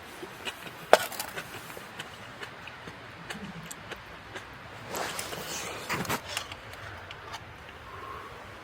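Scattered light knocks and clicks, the sharpest about a second in, with a cluster of knocks and rustling about five to six seconds in.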